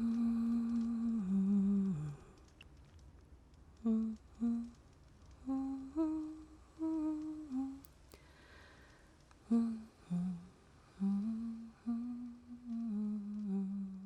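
A woman humming a slow, wordless lullaby-like tune in short phrases, each note held for about a second, with brief pauses between phrases.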